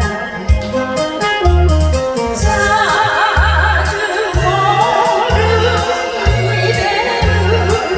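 A song with accompaniment: a steady beat of bass notes and drum hits, with a singing voice with vibrato coming in about two and a half seconds in.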